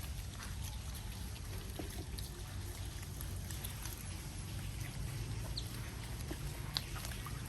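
Water trickling and splashing over a steady low hum, with a couple of short, high otter squeaks near the end.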